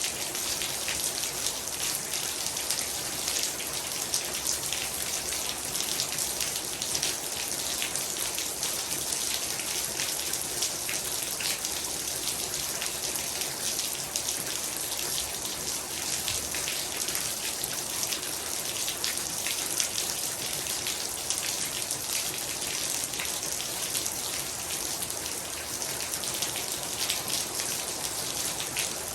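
Heavy rain falling steadily, a dense hiss of drops with fine individual patters striking a surface.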